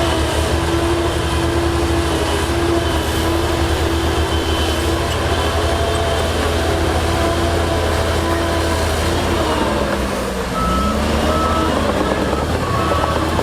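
Diesel engines of heavy earthmoving machinery running steadily, with the engine note dipping and picking up again about ten seconds in. Then a reversing alarm starts beeping repeatedly as a machine backs up.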